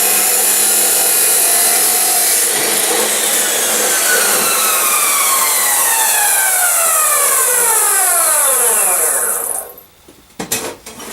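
Chop saw cutting steel flat stock with a loud, steady grinding. A couple of seconds in, the blade winds down with a falling whine over several seconds and stops near the end, followed by a couple of knocks.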